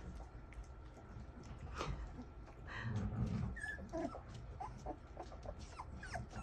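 English Mastiff puppies whimpering, with a louder scuffle about three seconds in and a run of short high squeaks after it.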